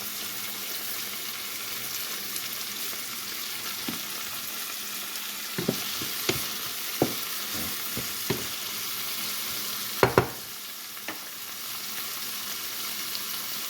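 Onions and tomatoes sizzling steadily in olive oil in a hot skillet, with a few knocks among the sizzle, the loudest a double knock about ten seconds in.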